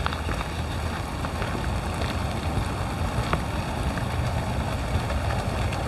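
Rain falling, with scattered drops ticking now and then, over a steady low rumble of wind on the microphone.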